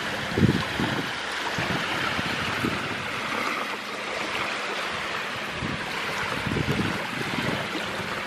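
Steady rushing of surf and wind along the shore, with a few short low thumps.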